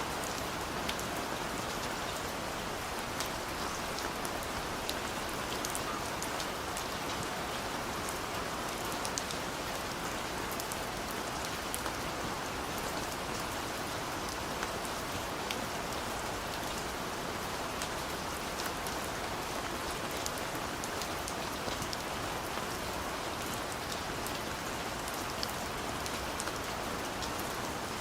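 Steady rain falling, an even dense hiss with many small drops ticking sharply through it.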